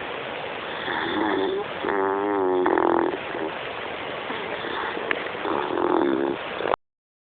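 Dog snoring in its sleep: three drawn-out, pitched snores, the loudest about two seconds in. The sound cuts off suddenly near the end.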